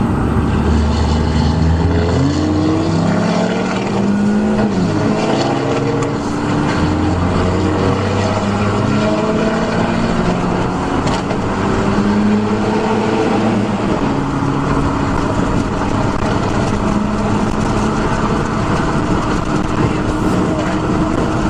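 Diesel vehicle engine accelerating, its pitch climbing and falling back several times as it pulls through the gears, then running at a steadier pitch in the later part.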